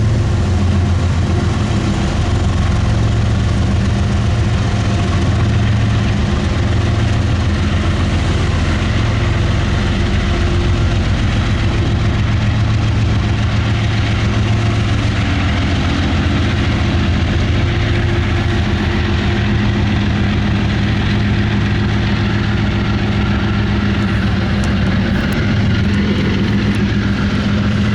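Diesel locomotive engine running with a steady low drone, over a haze of train noise.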